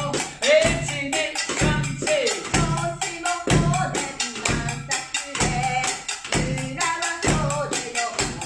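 A small percussion ensemble plays a Japanese-style rhythm: low drum strikes about once a second under quicker, lighter strikes and metallic or scraping accents. A voice sings a melody over it.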